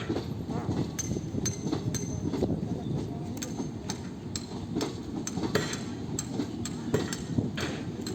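Background murmur of indistinct voices with scattered sharp clicks and clinks, over a steady low rumble.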